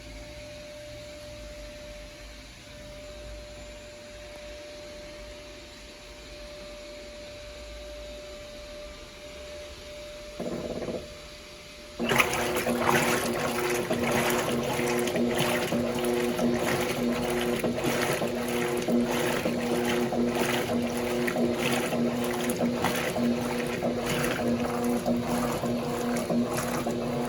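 Electrolux top-loading washing machine: a low hum, a brief louder hum a little over ten seconds in, then about twelve seconds in the machine starts up loudly with a steady motor hum and water sloshing and splashing in the tub.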